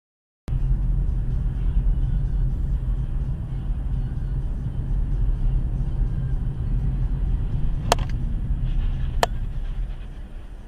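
Steady low rumble of a car driving, as picked up by a dash camera, starting abruptly after a moment of silence. Two sharp clicks come about a second apart near the end.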